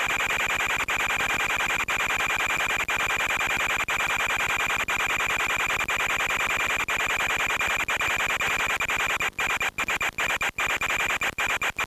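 Harsh, steady hiss and rushing noise with a steady high whine running through it, cutting out for split seconds again and again, most deeply in the last few seconds: the onboard audio of an FPV flight on an RC plane, with no voice.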